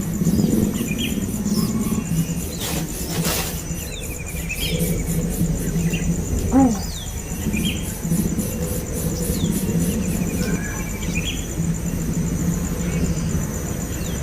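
Small birds chirping, many short high calls scattered throughout, over a steady low hum and a thin high steady tone; a brief swish about 3 s in and one lower call about 6.5 s in.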